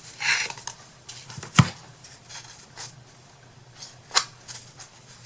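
Paper rustling briefly, then a few scattered light knocks and clicks as wooden craft pieces and patterned paper are handled on a work table.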